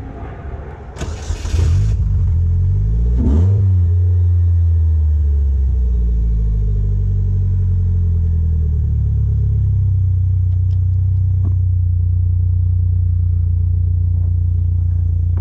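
Polaris Slingshot's 2.4-litre Chevrolet Ecotec four-cylinder engine starting up about a second and a half in. It is given one quick rev, then runs at a fast idle whose pitch eases slowly down and settles.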